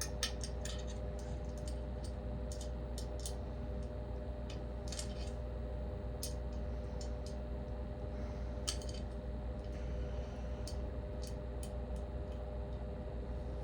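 Small, sharp clicks and taps of metal and plastic lamp parts being handled during assembly, coming irregularly, over a steady low hum.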